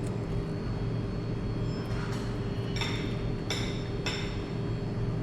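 Steady low rumble of restaurant and street background, with four short clinks of cutlery against a plate or dish between about two and four seconds in.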